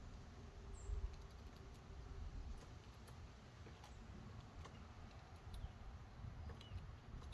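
Small songbirds at a wooden bird feeder: faint scattered light taps and clicks, with a couple of brief high chirps, one about a second in and one near the end, over a low outdoor rumble.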